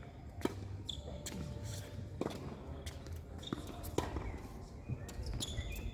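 Tennis rally: a tennis ball struck with rackets and bouncing on the court, several sharp hits at uneven intervals, with players' footsteps.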